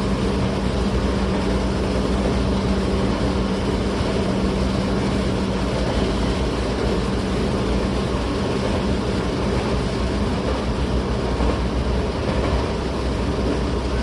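Tokyo Metro 08 series electric train (Mitsubishi IGBT-VVVF drive) running steadily, heard from inside the car: continuous wheel-and-rail rumble, with a steady low hum in the first second or so that then fades.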